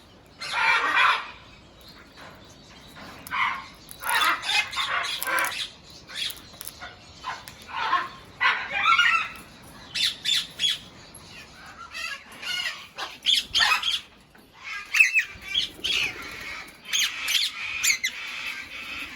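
Large aviary birds squawking again and again at irregular intervals, harsh calls mixed with shorter pitched calls.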